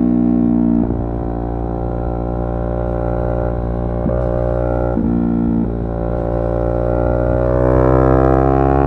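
Yamaha R3's 321 cc parallel-twin engine running under way. The engine note dips briefly several times, then climbs steadily near the end as the revs rise.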